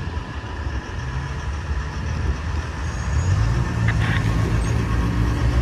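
Diesel freight locomotives running, a steady low engine drone over a broad rumble that grows louder in the second half.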